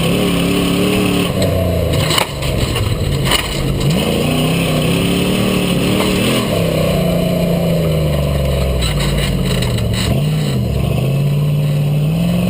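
Rock bouncer buggy's engine revving up and down, its pitch rising and falling repeatedly. A couple of sharp knocks come about two and three seconds in.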